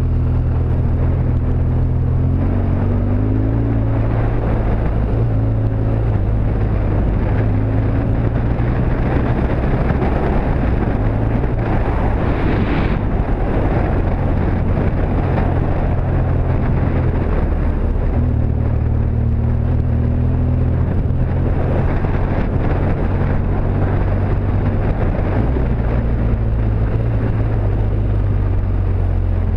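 BMW R1200GS Adventure's boxer twin engine running steadily under light throttle while the motorcycle rides a gravel road, its pitch rising and falling a little, with a constant hiss of tyres on gravel and wind on the microphone.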